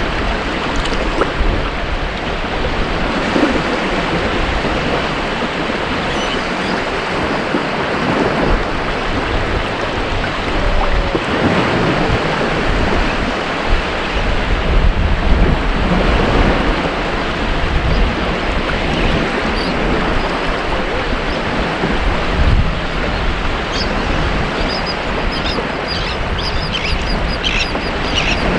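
Ocean surf breaking and washing on a beach, a continuous rushing hiss that swells and eases every few seconds. A few short high chirps come in near the end.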